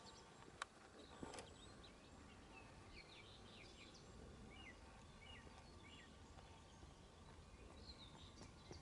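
Near quiet outdoors with faint, scattered bird chirps and twitters; two soft clicks in the first second and a half.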